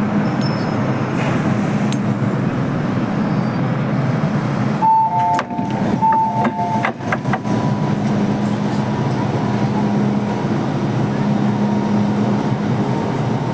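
MTR M-Train electric multiple unit running, heard inside the car as a steady rumble with a low hum. About five seconds in, a two-note electronic chime, high then low, sounds twice.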